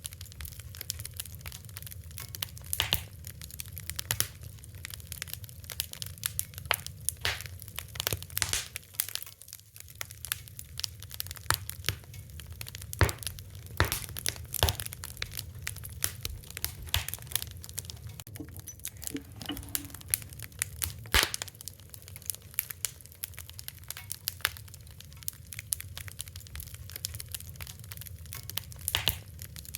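Wood fire crackling: a steady stream of irregular sharp pops and snaps over a low steady rumble of the flames.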